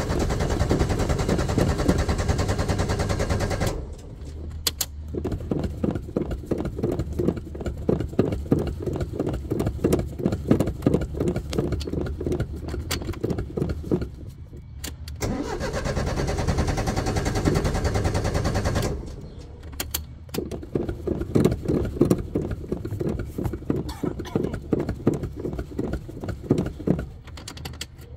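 An old Ford car engine being cranked over and over on the starter, pulsing rhythmically, in a hard start after sitting for weeks. Twice it catches and runs steadily for a few seconds, at the start and again about midway, then dies and goes back to cranking.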